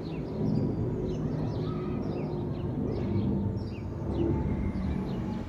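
Emirates Airbus A380's four jet engines as the airliner flies low overhead: a steady low drone with a faint held tone in it. Small birds chirp over it.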